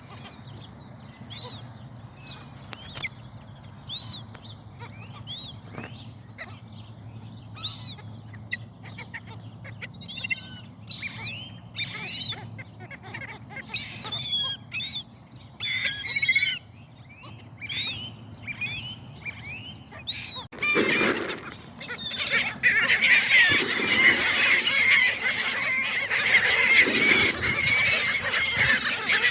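Seagulls calling over food: short separate calls at first that come more and more often, then, about two-thirds of the way in, a loud crowd of many gulls calling at once.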